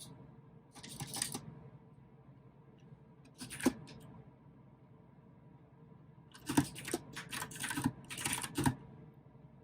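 Typing on a mechanical keyboard with clicky blue switches, in short bursts. There is a brief run about a second in, a few keystrokes near four seconds, and a longer run from about six and a half to nine seconds, with quiet pauses between.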